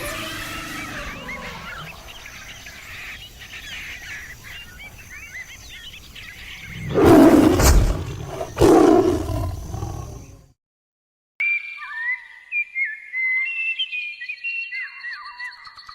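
Many birds chirp, then a big cat gives two loud, deep roars about seven and nine seconds in. After a sudden break to silence, a single songbird sings a clear, warbling song.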